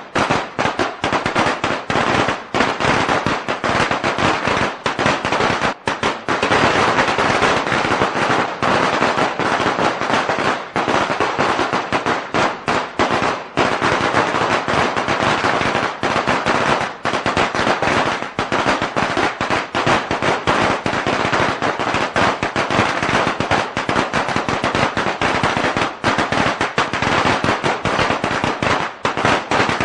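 A long string of Chinese firecrackers going off, a dense, unbroken rattle of rapid bangs.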